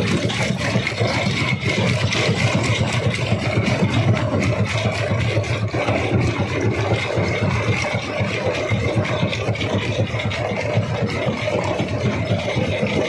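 Large rock crusher running under load: a steady machine drone with a continuous clatter of small knocks and scraping as stone is broken.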